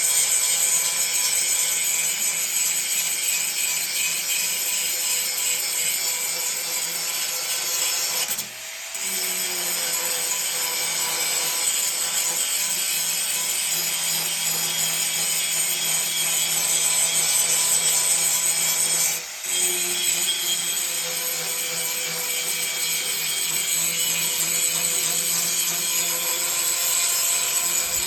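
Angle grinder with a green abrasive grinding wheel grinding down thick arc-weld lumps on steel sheet, a steady grinding noise that briefly drops twice as the wheel eases off the metal.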